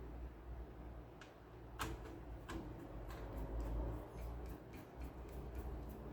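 Light clicking: a few separate sharp clicks, then a quick, fairly regular run of small ticks from about halfway, over a faint low hum.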